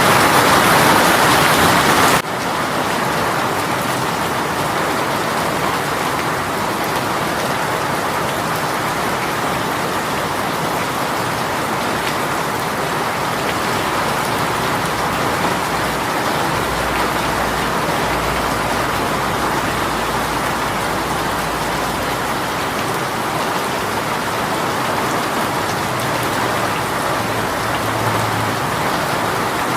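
Heavy rain shower pouring steadily. About two seconds in, the sound changes abruptly to a slightly quieter, even downpour. A low rumble sits underneath for several seconds past the middle.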